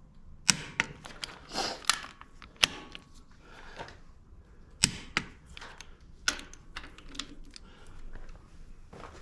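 Irregular sharp metallic clicks and clanks of hand tools being worked and handled on the tractor engine, about a dozen in all, the loudest about half a second in and around five seconds in.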